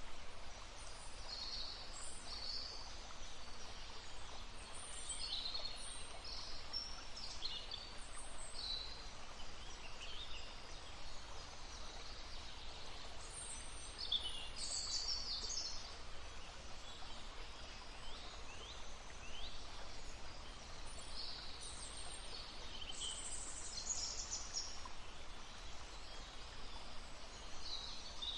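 Several wild songbirds calling and singing in short, high chirps and trills, busiest about halfway through and again two-thirds of the way in, over the steady murmur of a babbling stream.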